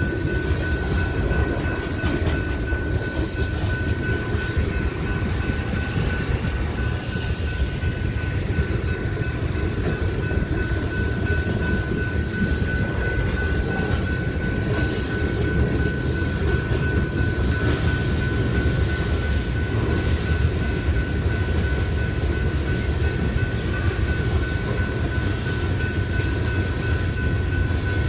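Train rolling past on the rails: a steady rumble of wheels with a thin, steady high whine over it.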